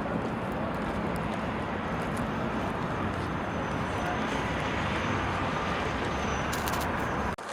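Steady rushing noise of city street traffic, with no distinct events, cutting off abruptly near the end.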